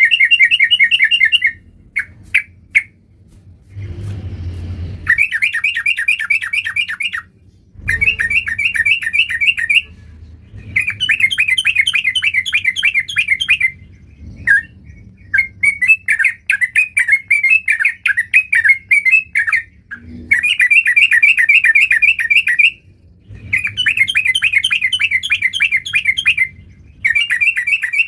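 Yellow-vented bulbul singing in repeated bursts of rapid chattering notes, each burst one to three seconds long with short pauses between. There is a brief low rustle about four seconds in.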